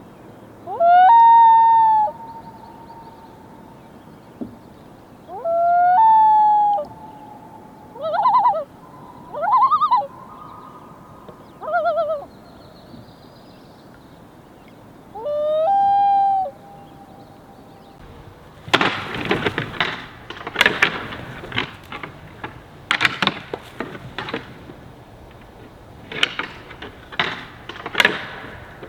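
Common loon calls: several drawn-out wails that rise and then hold a steady note, with wavering, warbling calls between them. About two-thirds of the way through, the calls give way to a run of irregular sharp knocks and clatters.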